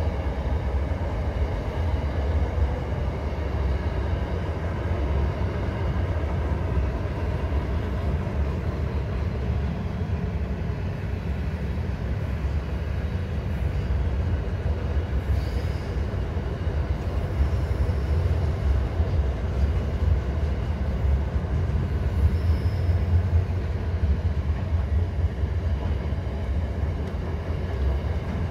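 Freight train wagons rolling across a railway bridge: a steady, deep rumble of wheels on rail, with a few faint, brief high wheel squeals about halfway through.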